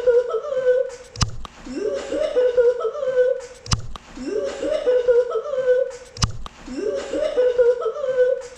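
A short clip of someone laughing, looped so that it repeats about every two and a half seconds, each repeat starting with a sharp click at the loop seam.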